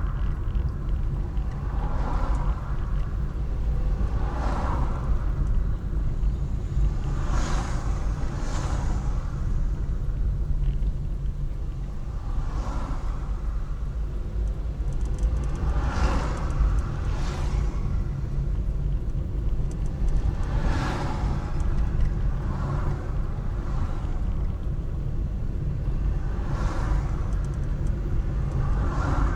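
Road traffic: a steady low rumble with cars swishing past one after another, roughly every two to four seconds.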